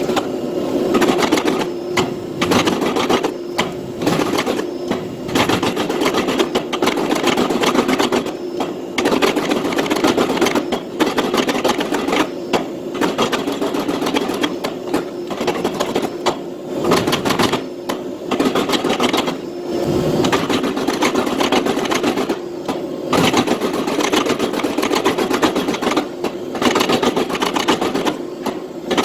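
A machine running with a fast, steady mechanical rhythm over a steady hum, broken by brief pauses every few seconds.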